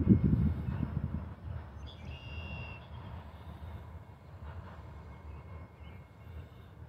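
Freight train's loaded hopper cars rolling away on the rails, a pulsing low rumble that fades over the first couple of seconds to a faint steady rumble. A short high-pitched tone comes about two seconds in.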